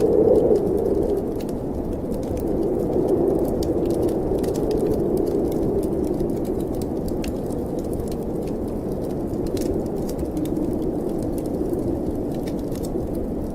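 Snowstorm wind moaning in a low, slowly shifting band, easing slightly after about a second. Scattered sharp crackles come from a fire burning in a fireplace.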